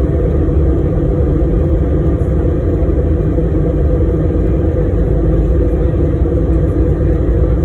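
Airbus A319 airliner on takeoff heard from inside the passenger cabin: a loud, steady rumble of engines and rushing air with no break.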